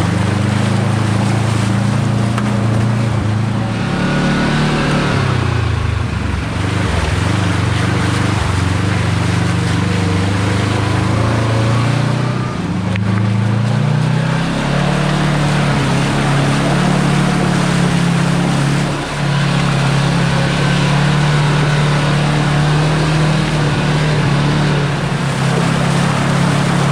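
Side-by-side UTV engine running as it drives along a trail, the revs dipping and picking up again a couple of times in the first half, then holding steady.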